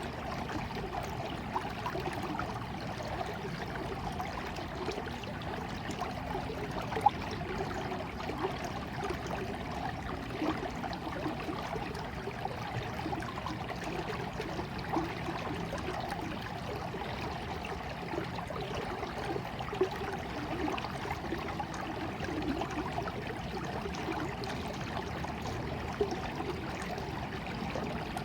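Running water, as of a small stream, flowing steadily, with brief louder splashes here and there; the sharpest comes about seven seconds in.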